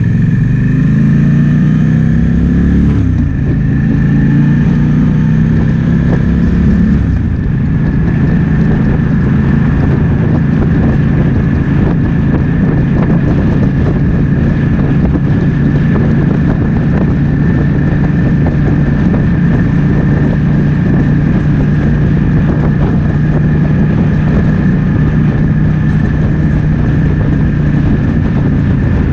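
Triumph Speed Twin 1200's parallel-twin engine under way with wind rushing past. The engine climbs in pitch under acceleration, drops at a gear change about three seconds in, climbs again, and settles after a second shift about seven seconds in into a steady cruise.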